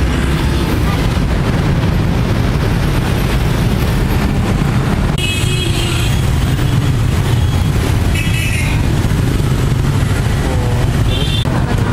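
Dense city traffic, mostly motorbikes with some cars, running past in a steady, loud rumble of engines and tyres. A few short high-pitched tones sound about five seconds in, around eight seconds, and again near the end.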